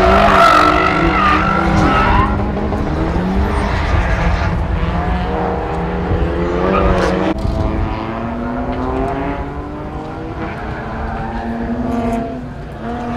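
Car engine revving hard, its pitch climbing and dropping again and again, with tyres squealing over the first couple of seconds.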